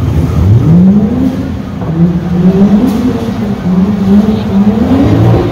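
Car engine revving hard: its pitch climbs steeply about half a second in, then rises and falls again and again in repeated revs.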